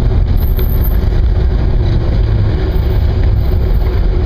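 Steady low rumble of a car's engine and road noise, heard from inside the car as it creeps forward in slow city traffic and comes to a stop.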